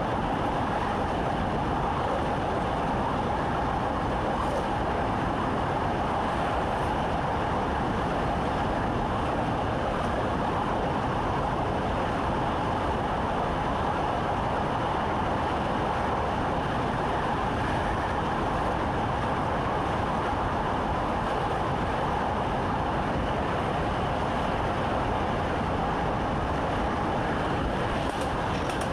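Train running at a steady speed, heard from inside the driver's cab: an even, unbroken rumble of wheels and running gear.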